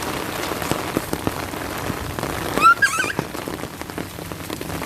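Steady rain falling on hard surfaces, a dense hiss with many separate drops ticking. About two and a half seconds in comes a brief high-pitched squeal that rises and breaks.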